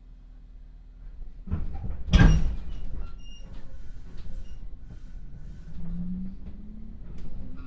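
The passenger doors of a JR 311 series electric train slide shut, ending in a loud thud about two seconds in, heard from inside the car. A few seconds later the train starts off, and the hum of its DC traction motors (field-added excitation control) rises slowly in pitch as it accelerates.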